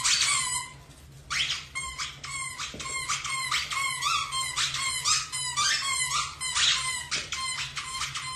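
Rapid high-pitched squeaking, several short squeaks a second, with a brief break about a second in.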